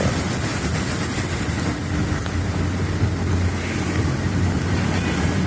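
A vehicle running steadily on the road, with a constant low engine hum under a wash of road and wind noise.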